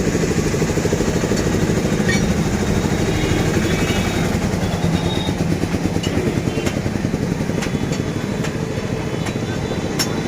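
A motorcycle engine running steadily with an even, rapid pulse, with a few sharp clicks in the second half.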